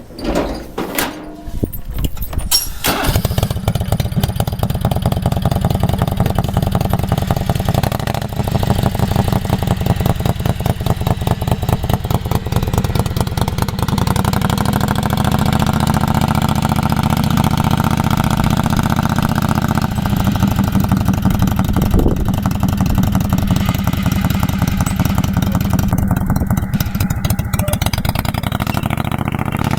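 Craftsman riding mower's 22 hp Kohler V-twin engine cranked by its starter, catching about three seconds in, then running steadily. Its speed steps up a little around the middle.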